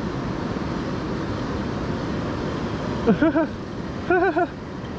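Steady rushing outdoor background noise. About three and four seconds in, a man makes two short wavering hums without words.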